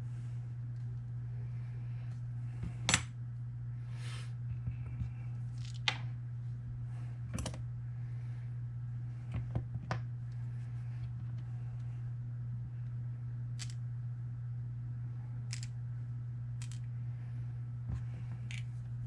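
Small metal parts of a Paclock 90A Pro padlock clicking and tapping as they are handled during reassembly: about ten scattered sharp clicks, the loudest about three seconds in, over a steady low hum.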